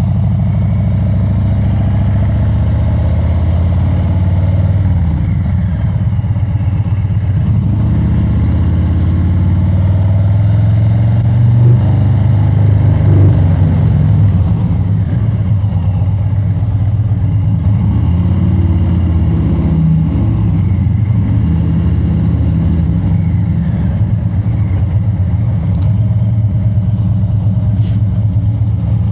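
Harley-Davidson Street Bob 114's Milwaukee-Eight 114 V-twin running through an aftermarket SP Concepts exhaust while riding, a steady low engine note that gets louder for a few seconds about halfway through.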